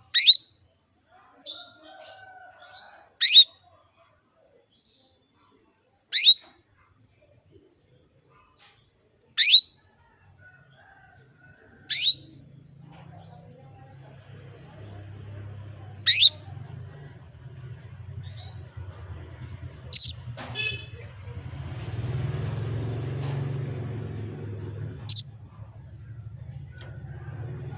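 Female canary giving single sharp calls, one every three to four seconds, each a quick downward-sweeping chirp, with short runs of soft pips between. A low hum comes in about twelve seconds in.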